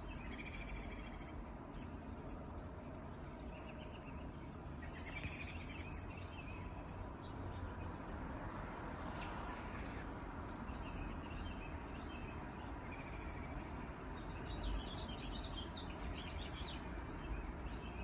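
Small songbirds chirping on and off, with brief high calls every couple of seconds, over a steady low background rumble.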